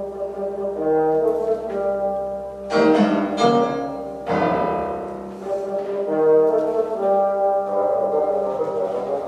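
Classical orchestral music led by brass, holding sustained chords, with two strong accented entries about three and four seconds in.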